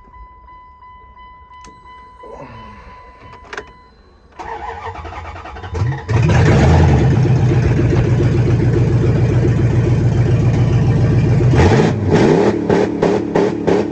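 Demo derby Dodge Durango's engine: a steady high tone sounds for the first few seconds, then the engine turns over and catches about six seconds in and runs loud. Near the end it is revved several times.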